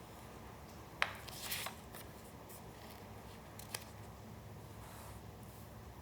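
Paper collage pieces being handled on a work surface: a sharp click about a second in, a brief papery rustle just after, and a smaller click a few seconds later.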